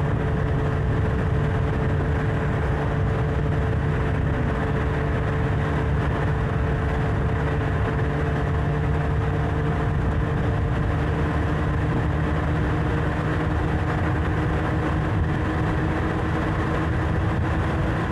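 Motorcycle engine running at a steady cruising speed, with wind and road noise on the bike-mounted microphone. The steady drone fades in at the start and fades out at the end.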